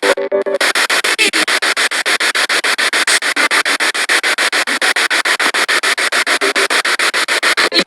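Spirit box sweeping through radio stations: loud static chopped into rapid even pulses, about eight a second, with a brief fragment of a broadcast tone right at the start.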